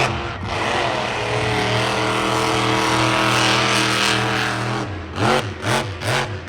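A racing engine held steady at high revs for several seconds, then blipped in three quick throttle revs near the end.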